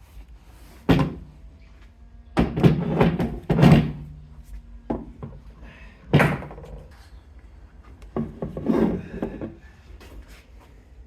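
Irregular knocks and clatter of tools and parts being handled and set down on a workbench: a single knock about a second in, a busy cluster from about two and a half to four seconds with a brief ring after it, another knock near six seconds and more clatter around eight to nine seconds.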